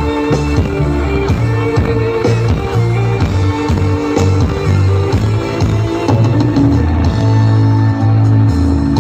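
Loud music with heavy sustained bass and a steady drum beat, played through a large carnival sound system.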